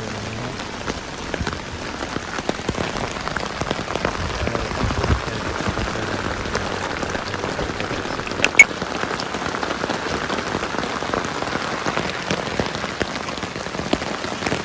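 Steady rain falling, with many separate drop hits, and one sharp tick about halfway through that is the loudest sound.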